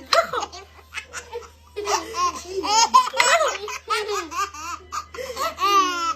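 A baby laughing: a high-pitched run of laughs and squeals that starts after a short pause near the beginning and carries on to the end.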